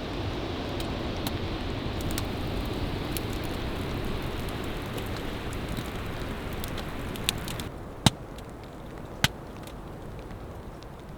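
Wood fire crackling and popping over a steady rushing noise; the rushing drops off abruptly about two thirds of the way through, and several loud, sharp pops follow.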